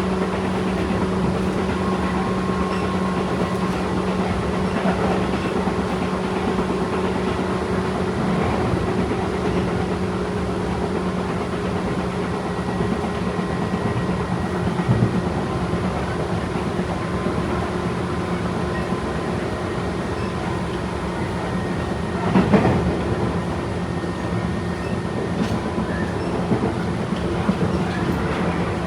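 Tobu 8000-series electric train running on the line: a steady rumble of wheels on rail with a constant motor hum and clatter over rail joints, and one louder knock about three quarters of the way through.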